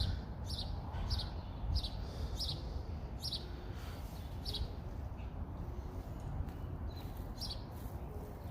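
A bird chirping repeatedly, short high chirps about twice a second that thin out after about five seconds, over wind rumbling on the microphone.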